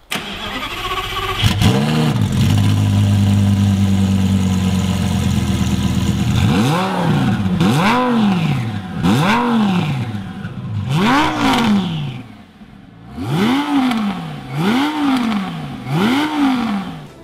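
Twin-turbo Lamborghini Gallardo V10 cranking and catching about a second and a half in, idling, then blipped through about eight quick revs. The left and right turbo exhausts are not yet joined by an X-pipe, and the owner finds the sound poor and not as exotic as it should be.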